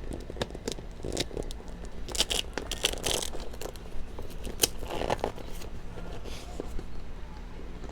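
Buckles and straps of new Fly Racing motocross boots being fastened and adjusted: several sharp clicks mixed with scraping and rustling, busiest about two to three seconds in and again around five seconds.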